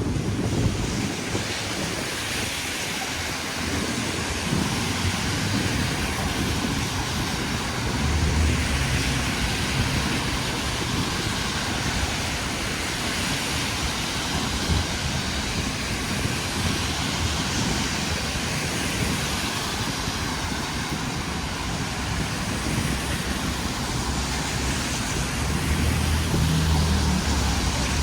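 Steady rain hiss on a city street, with traffic rumbling underneath; a heavier low rumble of a passing vehicle swells about eight seconds in and again near the end.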